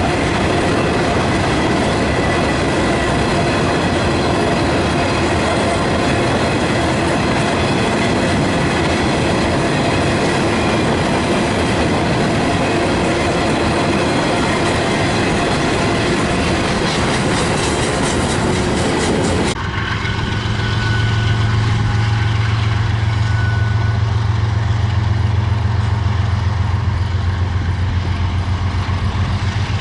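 Freight train cars rolling past with steady wheel-and-rail clatter. About two-thirds of the way through, this cuts suddenly to a steady low engine hum, like an idling diesel.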